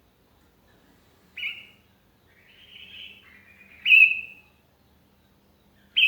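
Sooty-headed bulbul calling: short, sharp whistled notes about a second and a half in, around four seconds in and again at the very end, with softer warbling notes between the first two.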